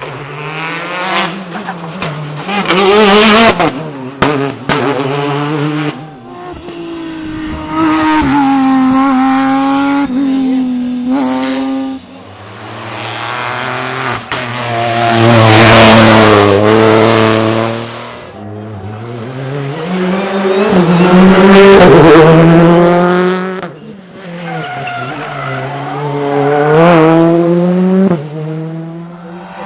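Rally cars at full effort on a stage, engines revving hard and climbing and falling in pitch through gear changes as they come past, with a string of sharp pops and bangs in the first few seconds.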